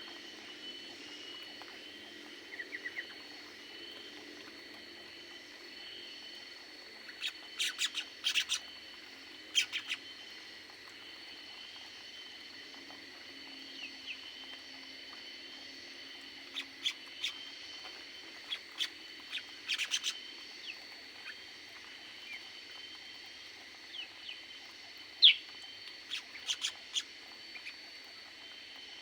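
Aviary birds chirping: short sharp calls come in clusters, over a steady faint high tone and a softer repeated chirp.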